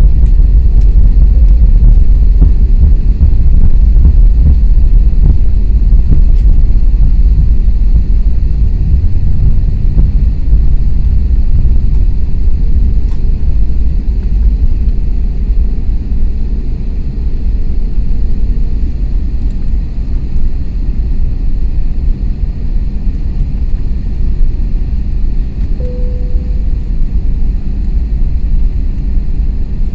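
Loud, low rumble inside the cabin of an Airbus A321neo rolling on the runway after landing, easing a little after about ten seconds.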